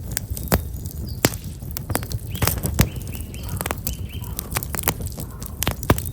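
Black locust firewood burning in an open fire, crackling and popping in frequent sharp snaps over a low rumble. Small birds chirp briefly in the middle.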